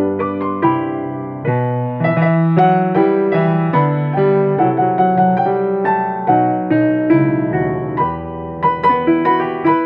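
Piano duet, four hands at one keyboard, playing a gentle melody over chords and a bass line.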